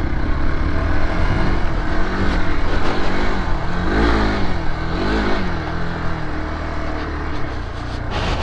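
Dirt bike engine running at low speed with short revs, its pitch rising and falling a few times, strongest about four and five seconds in.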